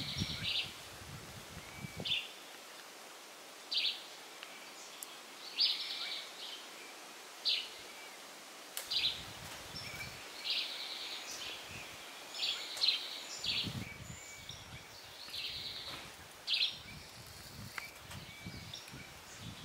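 Birds calling over and over, short high calls every second or two, some of them quick rattling trills, with a faint rustle of leaves and a few low bumps of wind or handling in the second half.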